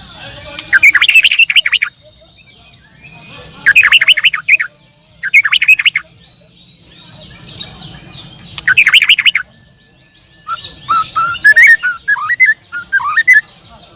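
Caged contest songbirds singing: four loud bursts of fast repeated chirps, each about a second long, then a more varied, warbling run of notes in the last few seconds.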